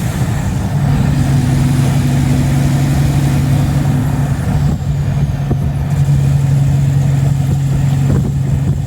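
Heavy diesel truck engine running with a steady low drone; its note drops slightly about a second in, then holds.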